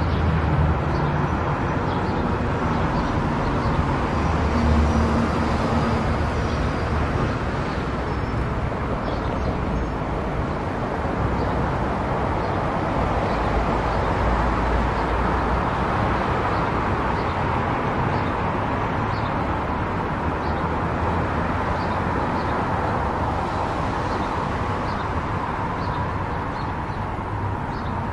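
A car driving at highway speed: steady road, tyre and engine noise.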